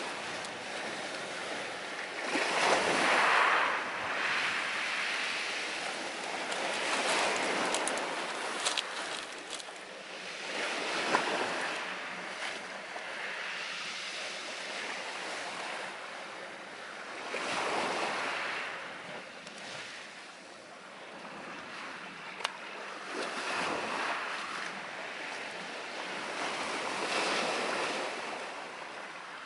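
Waves washing onto the shore, swelling and fading every few seconds, with a few sharp pops from a campfire crackling.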